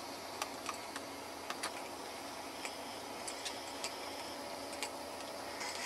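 A few light, irregular clicks and ticks over a steady background hiss.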